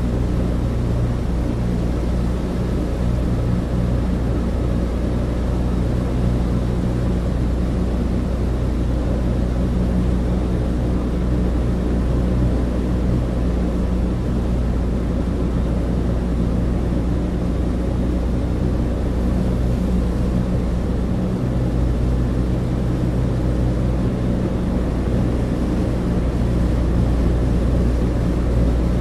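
Douglas DC-3 cabin interior: the twin radial piston engines drone steadily, a deep even hum under a constant rush of air noise.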